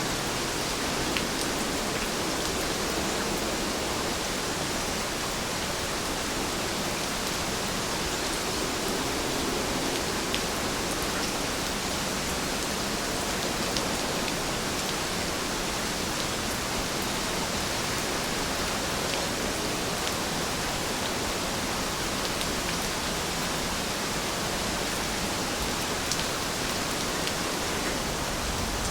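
Steady rain falling, an even hiss with a few sharp drop taps standing out now and then.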